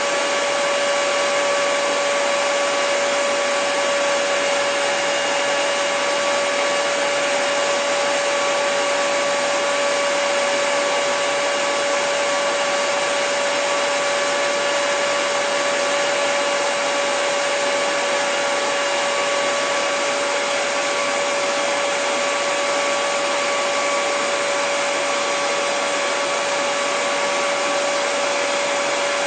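Hair dryer running steadily at constant speed: an even rush of blown air with a steady motor whine.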